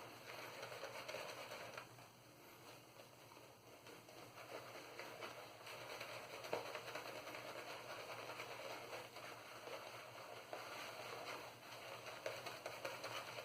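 Maggard 22mm synthetic shaving brush working Stirling soap lather over a wet face: a faint, continuous wet crackle of lather that swells and eases with the strokes.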